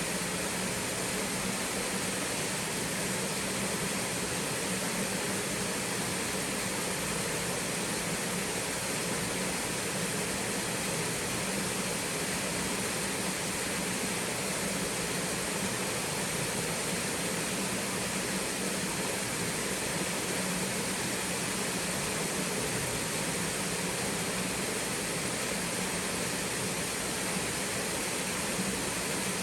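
Small twin waterfall splashing steadily into a mountain stream, an even rushing of water with no change.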